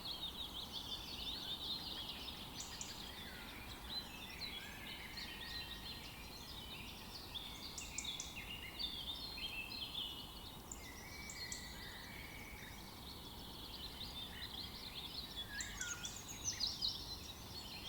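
A chorus of many birds chirping and trilling, overlapping calls with no pause, over a low steady background hiss.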